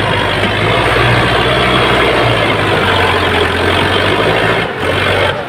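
Sonalika DI tractor's diesel engine running steadily, pulling a fully loaded trolley, with a brief dip in level near the end.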